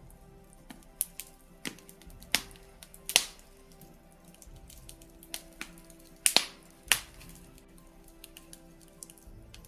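Birch-wood fire crackling in a fireplace: irregular sharp pops and snaps, about a dozen, the loudest a little after three seconds and a little after six seconds. Faint steady music sits underneath.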